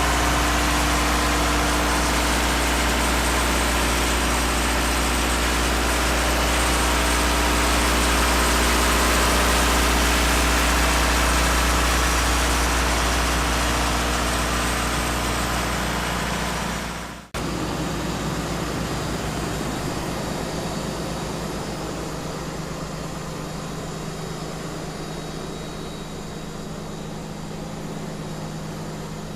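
Schwarze M6 Avalanche street sweeper's engine running steadily. A little past halfway the sound cuts out abruptly, then carries on at a lower level with a different tone, slowly fading.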